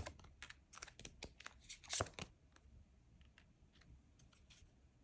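A tarot deck being shuffled: a quick run of soft card flicks and riffles for about two seconds, then a few faint card clicks.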